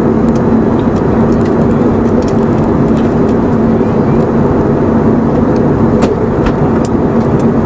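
Steady in-flight cabin noise of an Airbus A320neo on descent: a constant rush of airflow and engine noise with a steady low hum, and a few faint clicks.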